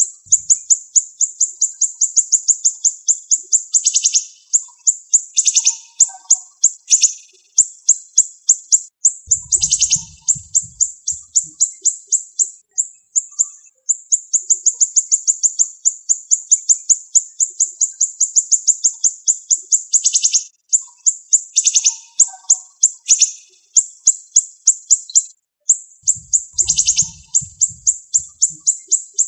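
Siri-siri bird singing: long, very fast runs of high, sharp repeated notes, broken by short pauses, with a lower swooping note thrown in every few seconds.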